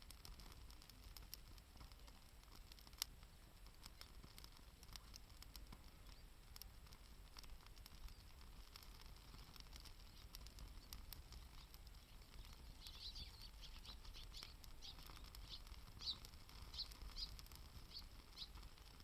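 Faint campfire crackle: scattered small snaps, with one sharper pop about 3 seconds in. Near the end comes a run of short, high chirps, a few a second, for about five seconds.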